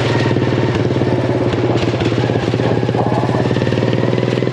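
Small single-engine of a Craftsman riding mower converted to a race mower, running through an open header exhaust at a steady speed, with a fast, even train of exhaust pulses.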